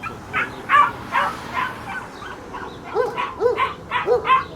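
Dog barking in short, high-pitched barks: a quick burst of several in the first two seconds, then after a brief lull a steady run of barks about two a second.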